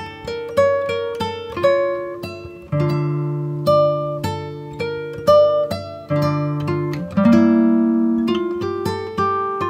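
Background music: an acoustic guitar picking slow single notes and chords, each note ringing out and fading.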